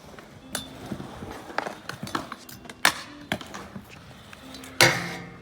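Hard wheels rolling on skatepark concrete, broken by a series of sharp clacks and knocks from a skateboard or scooter trick. The loudest is a hard impact near the end, with a short ringing tail.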